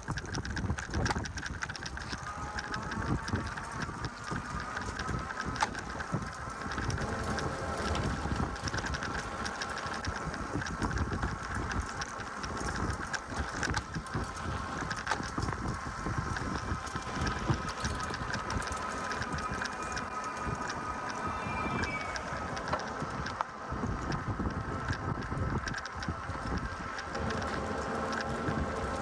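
Riding an e-bike: wind rumbles on the microphone along with rolling noise, and a steady high whine comes from the electric motor.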